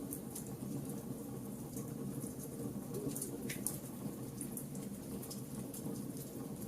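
Wood fire burning: a steady low rush of flames with scattered sharp crackles and pops from the burning wood at irregular intervals.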